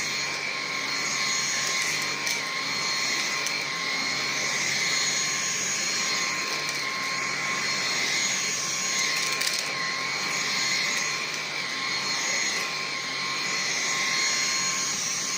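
Numatic James cylinder vacuum cleaner running steadily with a high whine and gentle swells in level, with a few faint ticks.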